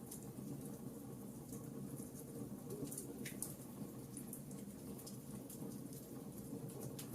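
Fire crackling in a fireplace: scattered small sharp snaps and pops over a low steady rumble, with one louder snap about three seconds in.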